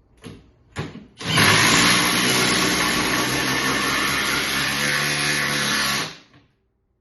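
Milwaukee M12 FUEL impact driver driving a long screw into wood at full power for about five seconds, starting a second in and stopping abruptly, after a couple of light knocks as it is set up.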